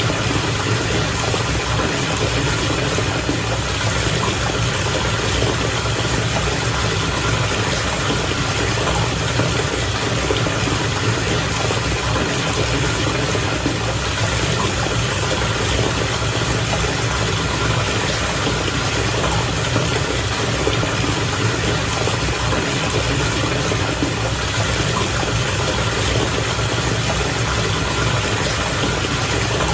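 Bath water bubbling steadily, an unbroken churning with a low rumble underneath.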